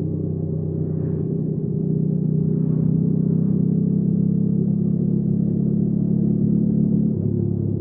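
Hyosung GV300S Aquila 300's V-twin engine running under way; its pitch and loudness step up a little over a second in, hold, and drop back near the end.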